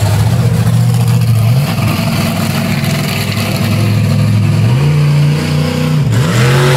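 Vehicle engine running and being revved, its pitch stepping up about a second and a half in and again near five seconds, then dipping briefly and picking back up near six seconds.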